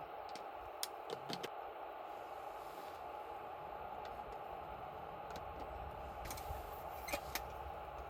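Wood campfire burning with a steady hiss, crackling with a few sharp pops: a quick cluster about a second in and two more near the end.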